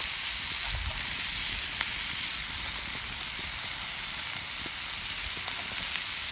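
Food frying in a pan over a campfire, sizzling steadily, with a few sharp pops.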